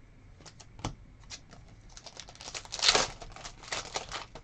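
Crinkling and rustling of a foil trading-card pack wrapper being handled and opened, loudest about three seconds in, after a few light clicks in the first second and a half.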